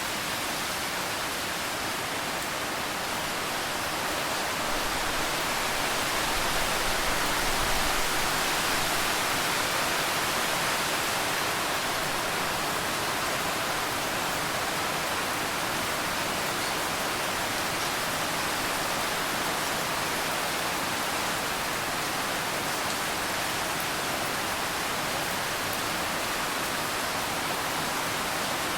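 Steady rain falling, an even hiss without distinct drops, swelling a little partway through.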